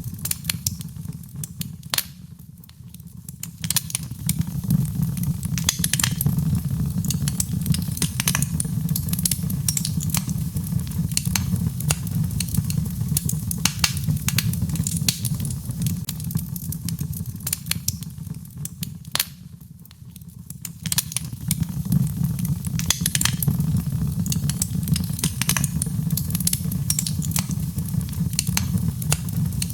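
Birchwood fire burning in a fireplace: a dense, irregular run of sharp crackles and pops over a steady low rumble of flames. It eases off briefly twice, a couple of seconds in and again about two-thirds of the way through.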